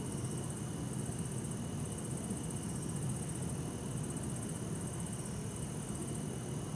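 Bell crickets and other night insects trilling in repeated pulses over a steady low hum of distant city traffic.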